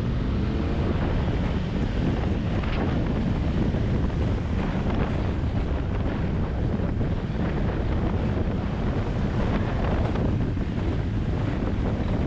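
Wind rushing over the microphone of a moving motorcycle: a steady, loud rush of noise with the engine and road noise buried underneath.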